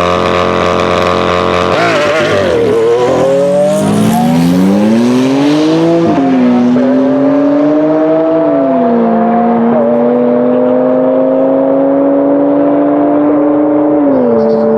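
Lamborghini Aventador's V12 engine under acceleration. The revs climb, then drop back sharply at each upshift, about two, six, eight and a half and fourteen seconds in, with a long, slowly rising pull in a high gear between shifts.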